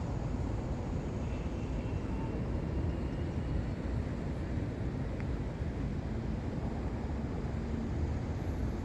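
Steady low outdoor background rumble with no distinct events, the kind of drone carried by traffic or wind on the microphone.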